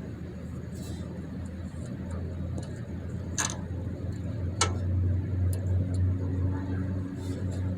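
Hand tools clicking on metal while a jam nut is fitted on a parking brake cable: two sharp clicks about a second apart near the middle, with a few faint ticks, over a steady low hum.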